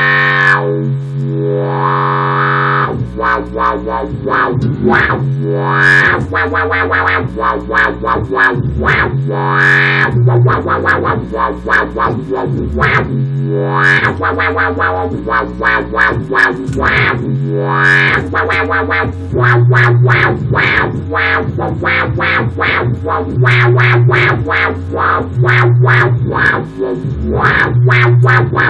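Music Man Ray35 electric bass played through an octave-down pedal, fuzz and wah, giving a dirty synth-like dubstep bass tone. It plays a repeating riff of low sustained notes that change every couple of seconds, with the wah sweeping up and down and fast rhythmic wobbles.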